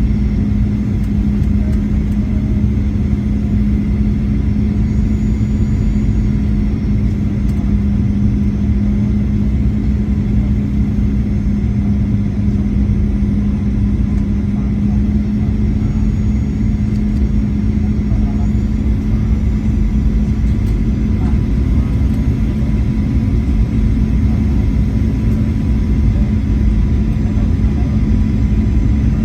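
Boeing 737-800's CFM56 jet engines and airflow heard inside the passenger cabin: a steady, loud low rumble with an even low hum that doesn't change.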